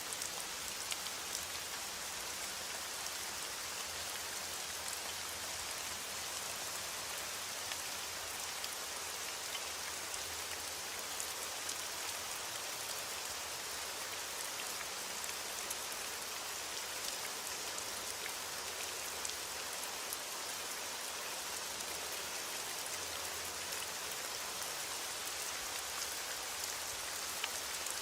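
Steady rain, a dense even hiss with scattered drop ticks.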